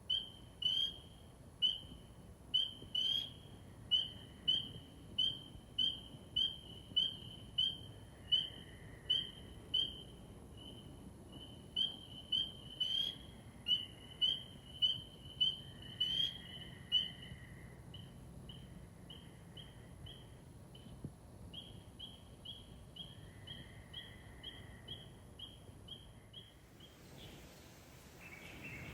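A bird singing one short, high note over and over, about twice a second, with a second, fainter bird calling lower now and then. The repeated notes stop a little before the end, leaving a steady outdoor hiss.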